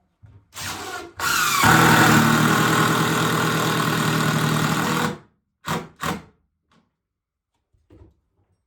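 Electric drill working in wood: a brief run, then a longer pull of about four seconds in which the motor spins up and settles under load, then two quick trigger blips.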